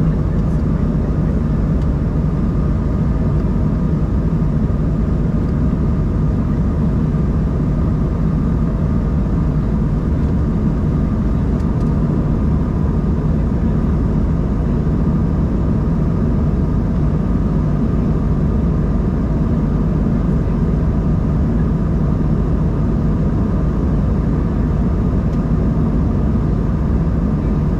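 Steady cabin noise inside an Embraer 190-E2 airliner in flight: the drone of its geared turbofan engines and the rush of air past the fuselage, low and even, with a faint steady hum above it.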